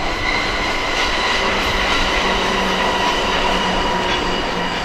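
Electric passenger train running past along the main line: the steady noise of its wheels on the rails.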